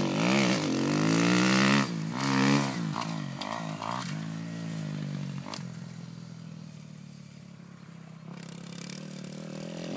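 Dirt bike engine revving up and falling off on the throttle, with a few short blips about three seconds in. It then runs lower and quieter for several seconds before picking up again near the end.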